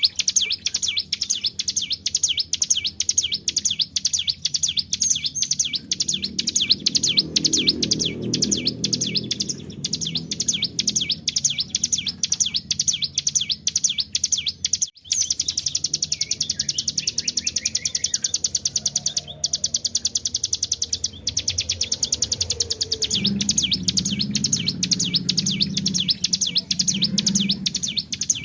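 Ciblek gunung (mountain prinia) singing a long, fast 'ngebren' trill, high notes repeated many times a second without let-up, breaking off briefly about halfway through. A lower pitched sound sits under it in places.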